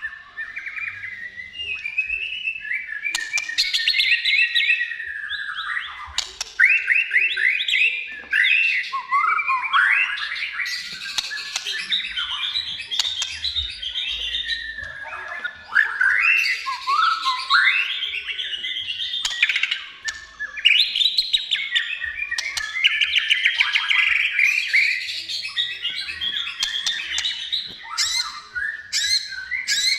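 White-rumped shama singing continuously: a fast, varied song of whistles, rapid trills and rattling runs with hardly a pause.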